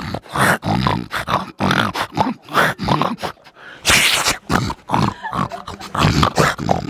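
A man imitating a monkey with his voice: a quick run of short calls and grunts, about three a second.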